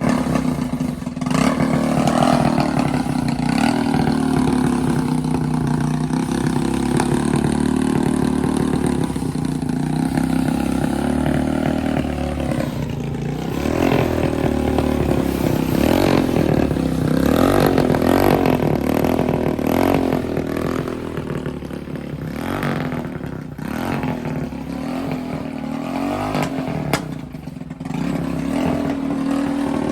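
Mini truck's 300cc four-stroke ATV engine running, its note wavering up and down through the middle part, with clattering and scraping.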